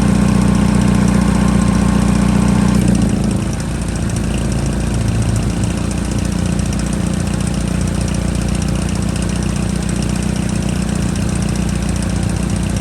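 2011 Chevrolet Equinox engine running at a steady, somewhat raised speed. About three seconds in, it drops back and settles into a steady idle.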